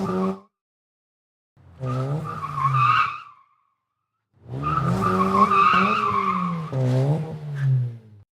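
Car engine revving with tyres squealing, in three bursts a couple of seconds each, cut apart by short silences.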